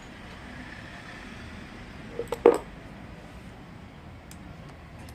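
Three quick knocks about two seconds in, the last the loudest, from car air-conditioning compressor parts being handled and fitted together during assembly.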